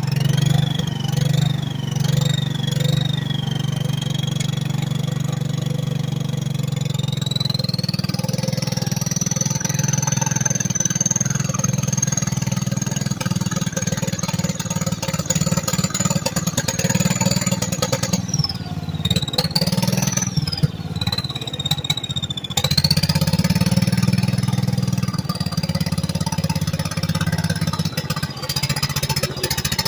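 Turbocharged Kohler Magnum 12 single-cylinder engine on a Toro Wheel Horse mower running through an open stack, with the small Garrett turbo's high whistle riding over it. The whistle wavers with a few quick throttle blips, climbs and holds high, dips about two-thirds of the way through, then climbs again.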